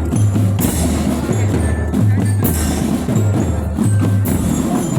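School marching drum band playing: bass drums keep a steady beat, with cymbal crashes about every two seconds and high bell notes over the drums.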